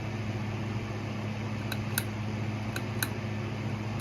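A steady low hum, with four light sharp clicks in the second half.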